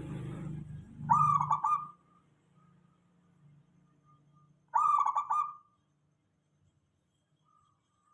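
Zebra dove (perkutut) cooing: two short phrases of quick rolling coo notes, about a second in and again near five seconds.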